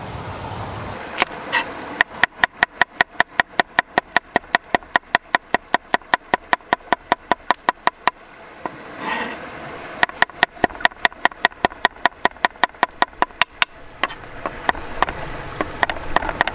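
A knife chopping fast on a wooden cutting board, about five strokes a second, in two long runs with a short pause between.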